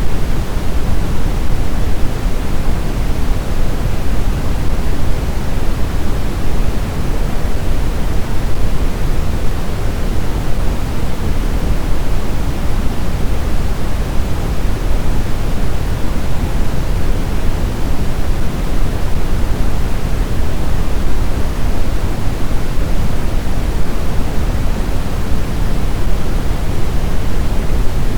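Snowstorm wind ambience: a steady, even rushing noise, heaviest in the low end, with no gusts or howls.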